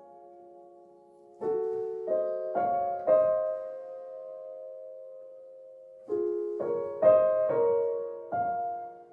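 Slow background piano music. A few notes are struck in quick succession, a chord is held and left to ring for about three seconds, and then another run of notes follows.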